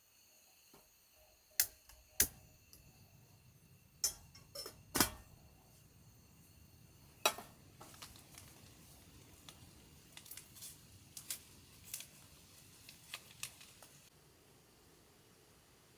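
Irregular sharp clicks and knocks of small hard objects being handled, about a dozen in all. The loudest come in the first half, and fainter, quicker ones follow near the end.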